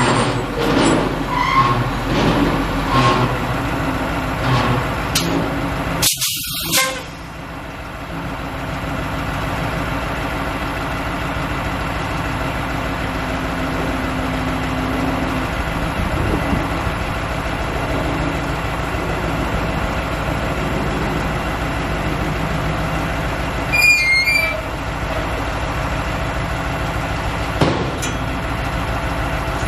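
Dump truck diesel engine running steadily, with a sharp hiss of air about six seconds in and a short, high-pitched toot near the end.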